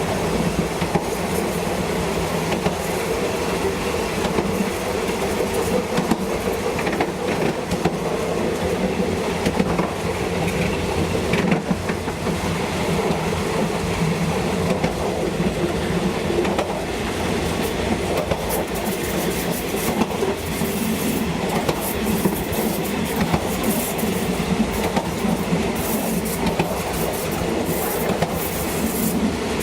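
Train running on rails, a steady rumble with wheel-on-rail clatter; from about halfway through, short high-pitched squeals from the wheels come and go.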